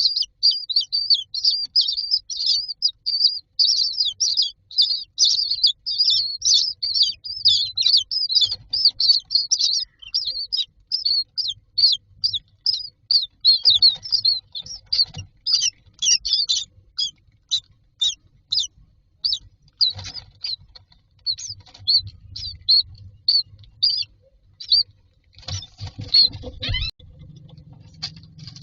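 Common myna chicks chirping in a fast, dense stream of short, high begging calls that thin out to spaced single chirps after about halfway. Near the end there is a short spell of bumping and rustling.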